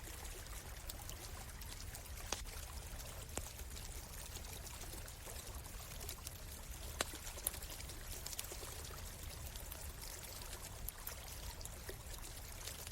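Stream water running and trickling steadily, with the sharp crackles and pops of a wood campfire scattered through it; a few louder pops come about two, three and seven seconds in.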